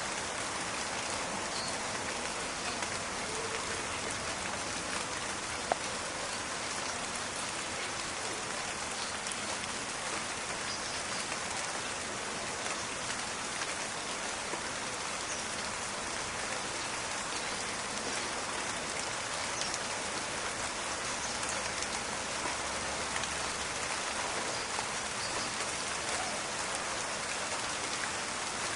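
Steady rain falling on a forest, a dense even patter with individual drops ticking through it, and one sharper drop click about six seconds in.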